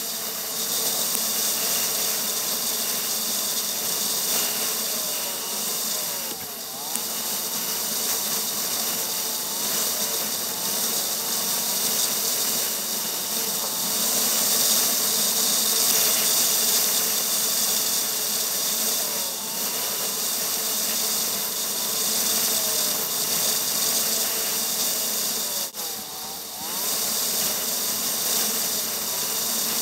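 Motorcycle engine running at road speed, its pitch rising and falling several times with throttle and gear changes, under a steady rush of wind on the microphone.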